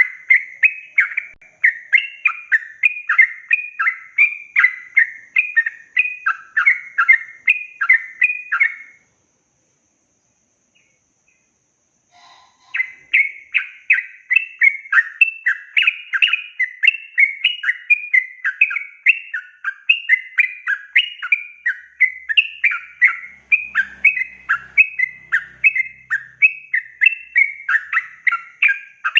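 Yellow-vented bulbul (trucukan) singing a long, fast run of short chattering notes, two or three a second. The song breaks off about nine seconds in, there are a few seconds of silence, and then it resumes.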